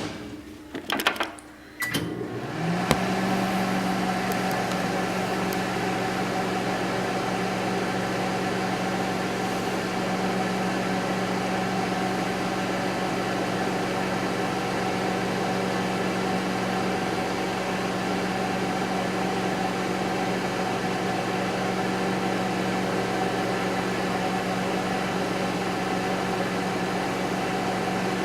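A few clicks and knocks, then about two and a half seconds in a microwave oven starts up and runs with a steady hum.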